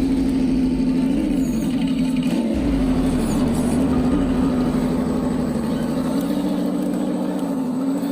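Electric motor and gears of an RC off-road truck whining steadily, the pitch rising and dipping slightly as the throttle changes.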